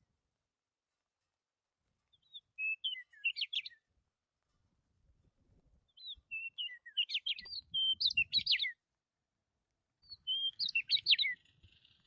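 A songbird singing three rapid phrases of varied, high, warbling notes, each about one to three seconds long, with short pauses between them.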